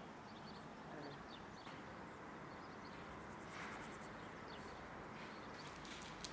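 Quiet outdoor background with a few faint, short bird chirps and scattered light clicks.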